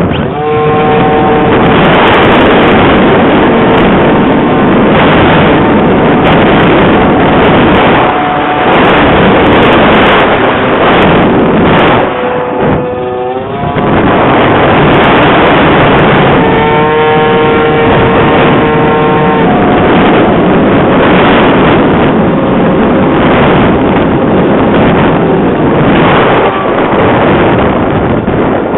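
Heavy wind buffeting the microphone in a loud, steady rush. A held whistling tone rises through it a few times, wavering once near the middle.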